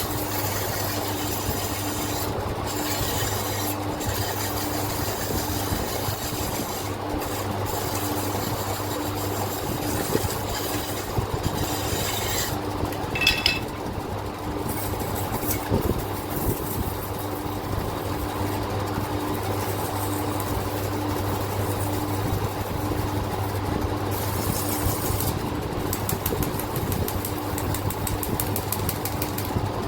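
Sandpaper rubbing and scraping on a metal engine piston in uneven strokes, over a steady low machine hum.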